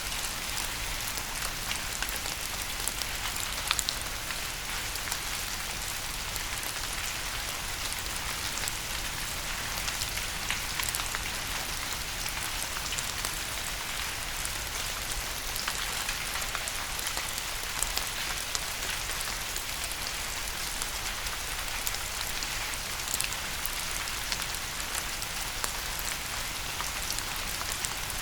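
Steady rain falling on a surface: an even hiss with scattered louder drop ticks.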